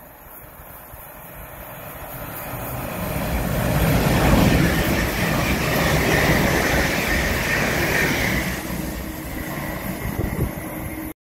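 London Northwestern Railway electric multiple unit passing through the station without stopping: the rumble of wheels on rails grows as it approaches, is loudest as the carriages go by, with a high hiss over the middle, then fades as it draws away.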